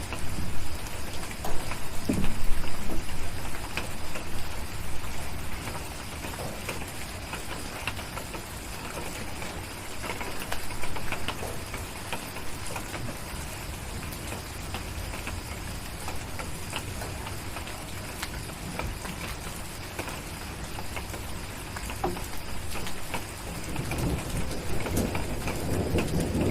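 Steady rain hiss with scattered sharp crackles of a wood fire, and low rumbles of distant thunder in the first few seconds and again near the end.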